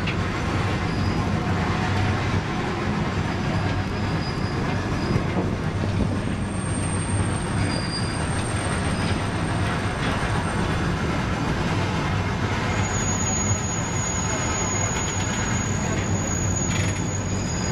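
Steam excursion train rolling along the track, heard from aboard an open-sided passenger car: a steady rumble of wheels and car on the rails. A thin, high-pitched wheel squeal joins about two-thirds of the way through.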